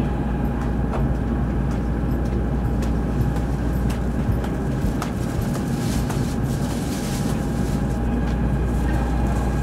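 Steady low hum inside a Series N700 Shinkansen car standing at a station platform, with a faint steady whine and a few light clicks over it.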